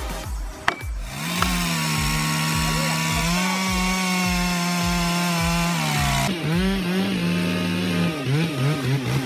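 Chainsaw engine running at high revs under cutting load. Its pitch steps up about three seconds in, drops near six seconds, then rises and falls in quick revs near the end.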